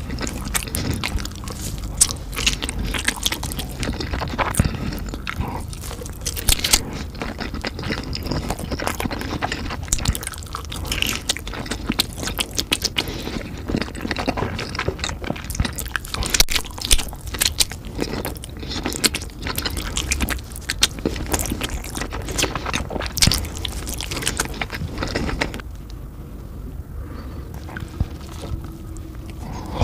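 Close-miked chewing and biting of large sausages, with many sharp, irregular mouth clicks and smacks. It turns softer for a few seconds near the end.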